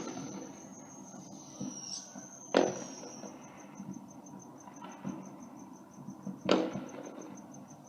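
Distant 4th of July fireworks going off: two sharp bangs about four seconds apart, each trailing off briefly. Crickets chirp steadily throughout.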